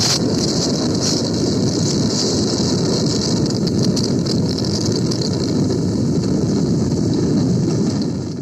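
A truck running steadily, a constant dense engine and road noise with no changes in pitch.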